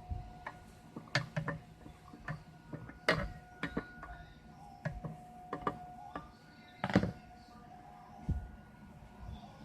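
Scattered clicks and knocks of plastic and metal parts being handled while a power auger's small engine is taken apart on the bench, the loudest knock about seven seconds in, over a faint steady hum.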